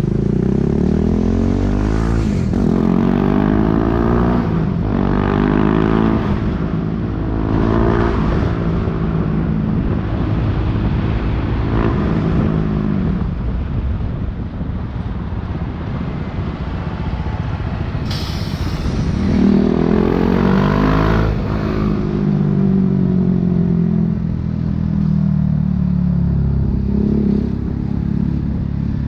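BMW G 310 R single-cylinder engine through an Akrapovic racing exhaust, heard from the bike. It accelerates through the gears: the revs rise and drop back at each shift several times, pull up again later, then settle to a steadier, lower running note.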